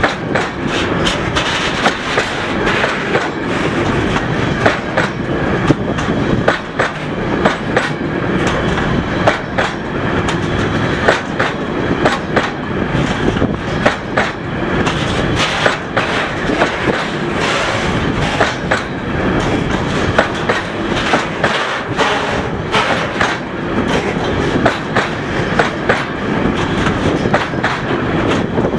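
Container flat wagons of a freight train rolling past at about 20 km/h, their wheels clicking and clattering over the rail joints in a steady stream of knocks over a running rumble.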